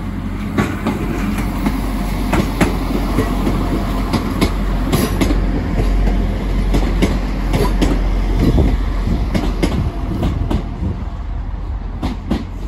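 Transport for Wales Class 175 diesel multiple unit passing close by with a steady low rumble, its wheels clacking irregularly over the pointwork; the passing sound eases near the end.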